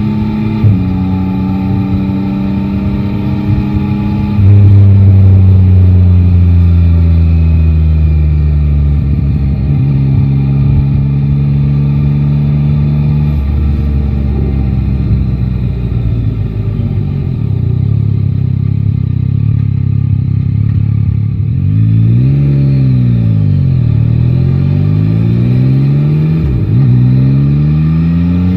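Three-cylinder motorcycle engine of a Yamaha Tracer 9 GT running through city traffic. It gets louder about four seconds in, its pitch sinks slowly as the bike rolls off, then settles lower. Near the end the revs climb and drop several times as the rider accelerates through the gears.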